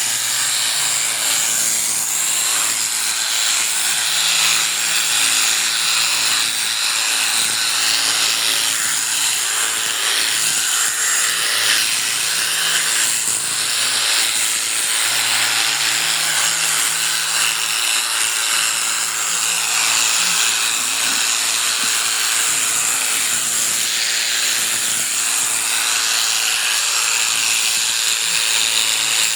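Electric sheep-shearing clippers running steadily as they cut through fleece.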